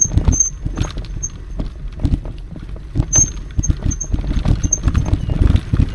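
Electric mountain bike riding over a rough forest trail: irregular knocks and rattles from the bike and tyres on the ground, over a steady low rumble.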